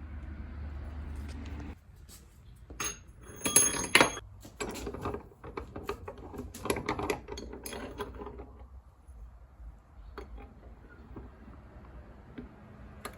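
Small hard objects clinking and rattling as they are handled, with a bright ringing clink about three and a half seconds in, the loudest sound. A low steady hum stops a little under two seconds in.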